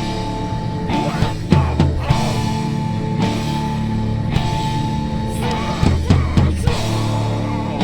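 A rock band playing live: drum kit, electric guitar and bass together, with clusters of heavier drum hits about a second and a half in and again about six seconds in.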